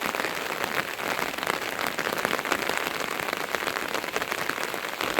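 Rain falling steadily and hard, a dense hiss with many separate drop hits.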